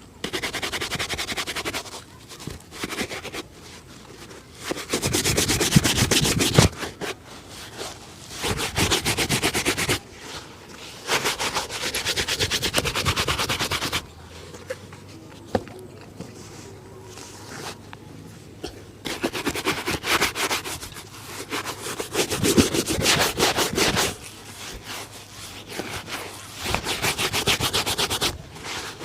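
Leather shoe being buffed during a shoe shine: spells of rapid rubbing strokes, each lasting from about a second to several seconds, with short pauses between.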